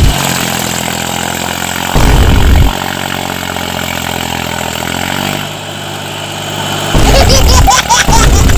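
Small tractor engine running at a steady idle; its note dips and comes back up around the middle. Two loud low rumbles cut in over it, one about two seconds in and a longer one near the end.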